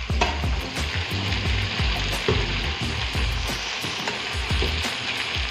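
Shredded cabbage and potatoes sizzling in hot oil in a metal kadhai. A steel spoon stirs the heap, scraping and knocking against the pan again and again.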